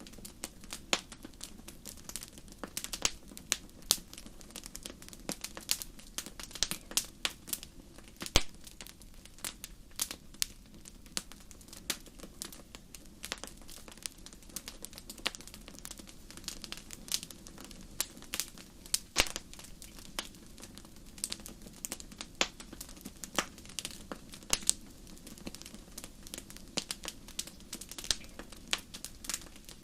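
Wood fire in a fireplace crackling, with many irregular sharp pops and snaps over a steady low rush of the flames.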